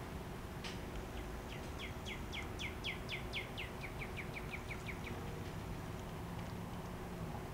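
A songbird singing one long trill of quick down-slurred notes, speeding up and fading over about four seconds, over steady low outdoor background noise.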